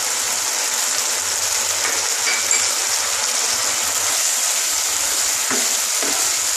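Spiced yogurt masala frying in a nonstick kadai with a steady sizzle, stirred and scraped with a wooden spatula.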